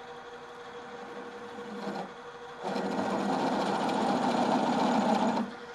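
A 3/4-inch twist drill chattering in the part, a loud rapid rattle from about two and a half seconds in until it stops sharply near the end, over the steady hum of the machine's motor. The drill is deflecting and jumping around the hole because it is turning too fast for its size, even in the machine's low range of 410 RPM.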